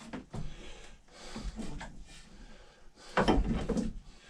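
Irregular wooden scrapes and knocks from hand work on an axe handle and its wedge being trimmed down, with a louder burst about three seconds in.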